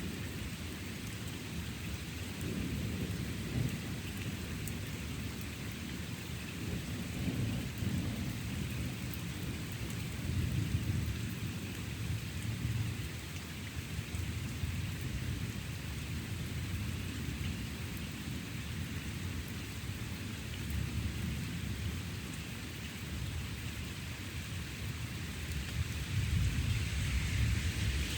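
Steady rain falling with low thunder rumbling on and off, swelling about ten seconds in and again near the end.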